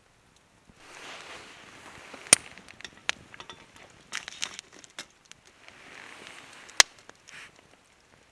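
Rustling and scraping handling noise broken by sharp cracks, the two loudest a little over two seconds in and near the end, with a few smaller knocks between.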